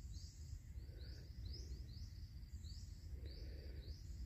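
A bird repeating a short, high, sweeping chirp about twice a second, faint over a low steady rumble.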